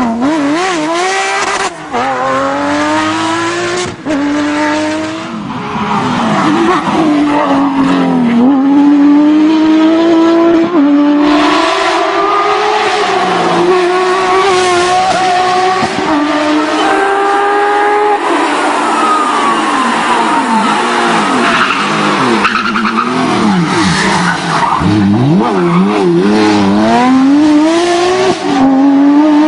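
Porsche 911 GT3 rally car's flat-six engine revving hard through the gears, its pitch climbing in repeated sweeps and dropping back at each shift and lift, with tyre skidding as the car slides through corners.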